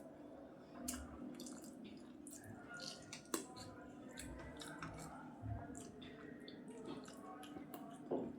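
Wet chewing and mouth sounds of someone eating rice with vegetable curry: irregular soft smacks and clicks, with one sharper click about three seconds in.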